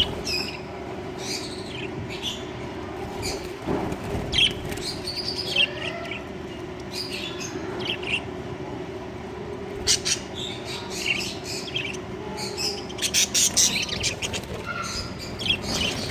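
A colony of budgerigars chirping and chattering with many short, overlapping calls, rising to a flurry of sharp calls near the end, over a steady low hum.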